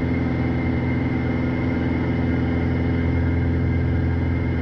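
Steady drone of a Piper PA-46 Malibu's piston engine and propeller heard inside the cockpit during the climb, an even, unchanging hum made of several low tones.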